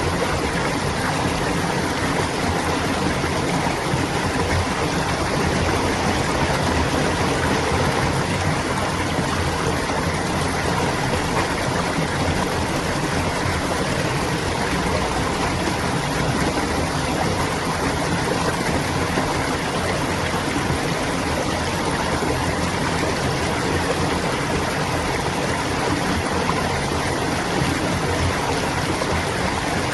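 Clear water flowing and babbling over stones in a small stream, a steady, even rush.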